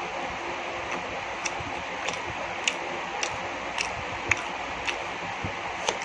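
Close-miked chewing of chicken momo: short wet mouth clicks about twice a second over a steady hiss.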